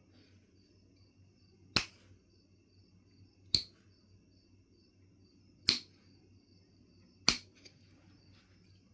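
Knife River Flint being knapped: four sharp clicks, one every couple of seconds, as flakes come off the stone.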